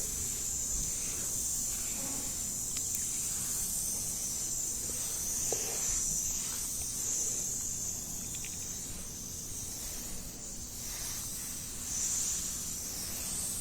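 A steady high hiss that swells and fades several times, with a few faint clicks.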